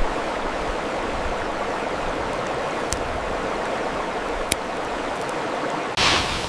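Steady rushing noise of running water, with a couple of faint ticks and a short, louder swish about six seconds in.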